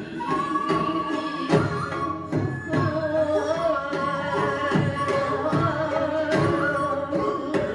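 Korean traditional music for the hallyangmu dance: held, wavering melodic notes over drum strokes that fall irregularly.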